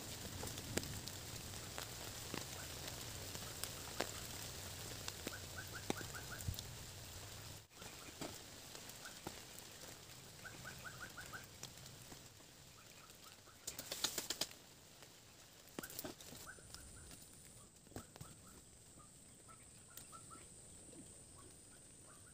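Faint forest ambience with scattered clicks and knocks and short runs of rapid chirping calls from birds, with a steady high whine in the latter part.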